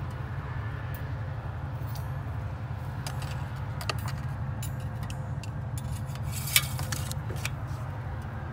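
Small pickup truck's engine idling steadily, with scattered light metallic clinks and jingles over it and one sharp click about six and a half seconds in.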